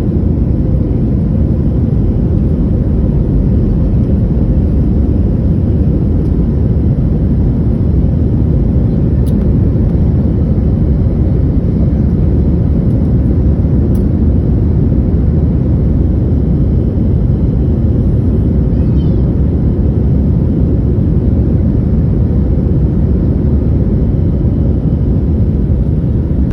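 Airliner jet engines and airflow during takeoff, heard as a steady, loud, deep roar that does not change.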